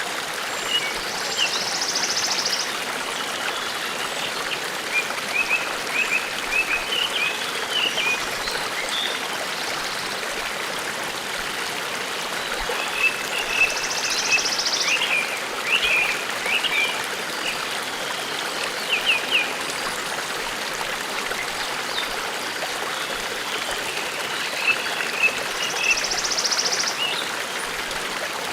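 Forest stream babbling steadily, with small songbirds chirping in short scattered runs and a brief high buzzy trill that comes three times, about twelve seconds apart.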